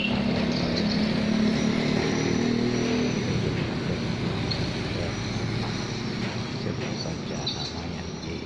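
A car engine humming steadily, fading out about three seconds in, over continuous street traffic noise.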